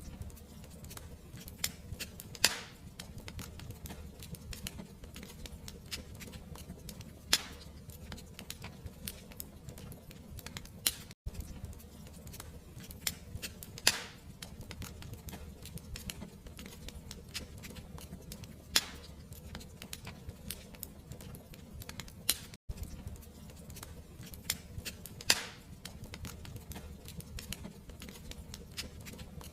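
Fireplace fire crackling: a constant soft crackle over a low rumble, with a sharper pop every few seconds.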